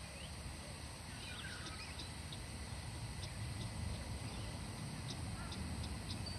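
Outdoor ambience: a steady low rumble with faint, scattered bird chirps and a few short high ticks.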